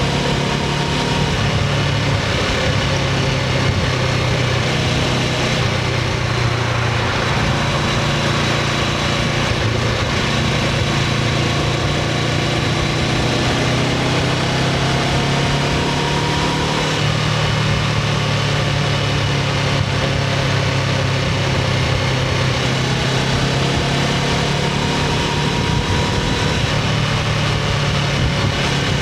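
Honda CBR500R's parallel-twin engine running on its stock exhaust at a steady, even note, with only slight changes in pitch.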